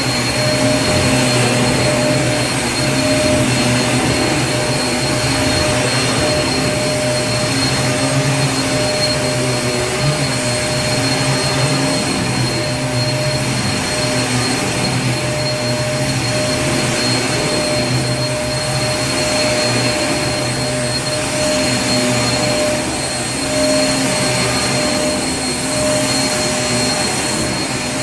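Vacuum cleaner running steadily, a constant rushing of air with a thin high whine over it.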